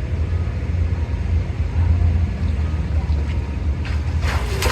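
Wind buffeting the microphone: a steady, uneven low rumble, with a short rushing noise near the end.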